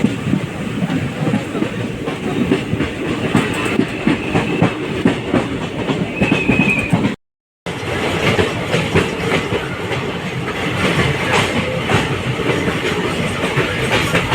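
Passenger train's ICF coaches running on the track, heard from on board: a steady rumble with rapid wheel clicks and clatter over the rail joints. The sound drops out completely for about half a second a little after halfway through.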